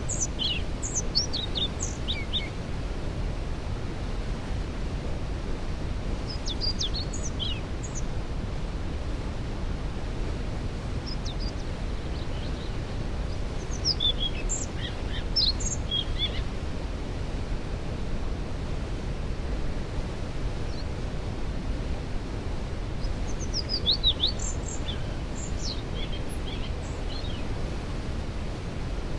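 Steady low roar of a waterfall, with a songbird singing short, high chirping phrases over it several times.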